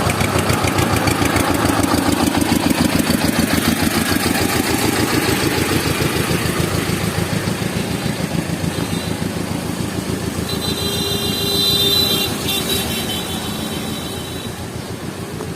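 A small motor vehicle engine runs close by with a fast, even pulse, fading slowly toward the end. A brief high-pitched steady tone sounds from about ten and a half to twelve and a half seconds in.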